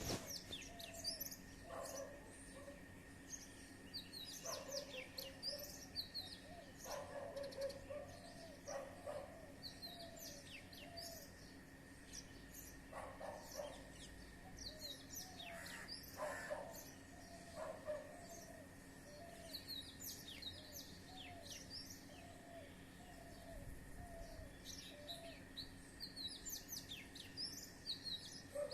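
Dawn chorus of many small birds chirping together in a tree: a dense stream of quick high chirps, with a lower short call repeated in runs underneath. A faint steady tone hums beneath it all.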